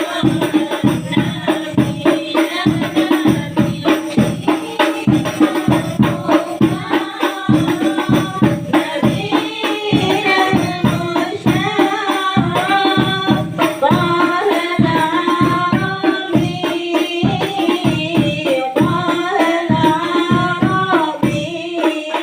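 Women's group singing a devotional song in unison over hand-struck frame drums (rebana) keeping a steady beat.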